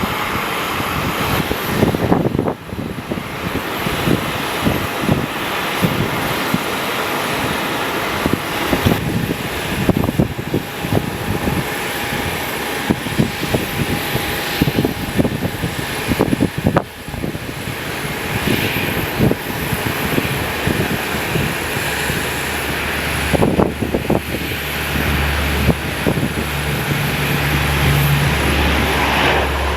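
Airplane engines running, heard under strong wind buffeting the microphone in gusts; a low, steady engine hum grows louder over the last several seconds.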